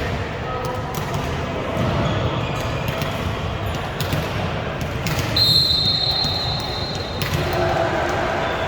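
Volleyball game in a gym: sharp ball hits and thuds echo over a steady murmur of crowd and room noise. About five seconds in, a referee's whistle sounds for nearly two seconds, the loudest sound here.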